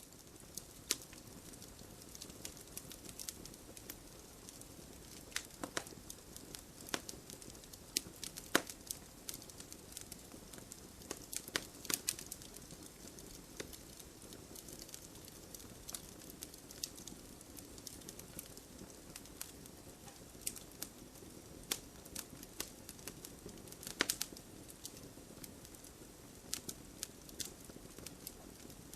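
Wood fire burning in a fireplace: a steady low hiss of flames with irregular sharp crackles and pops from the burning logs, a few louder snaps standing out.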